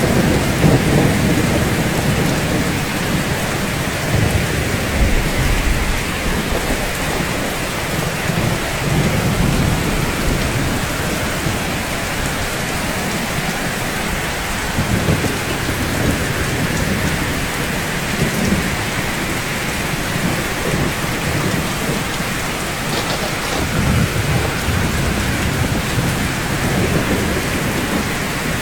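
Steady rain falling on rooftops, an even hiss throughout. Low rolling thunder rumbles under it, loudest at the start and fading over the first few seconds, with fainter low swells later.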